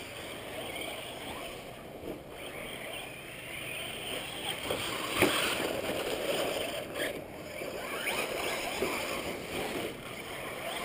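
Radio-controlled cars running on a dirt track: a steady hiss of tyres and dirt, with faint motor whines that rise and fall a few times as the cars speed up and slow down.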